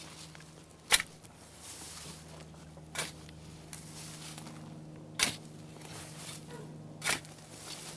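Four sharp clicks, evenly spaced about two seconds apart, over a faint steady low hum.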